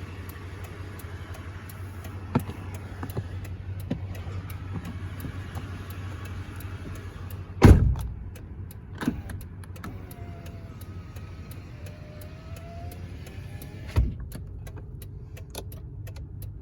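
Pickup truck's power window motor whirring for several seconds, then sharp thumps, the first the loudest. A faint rising whine follows, then one more thump near the end, all over a low steady hum.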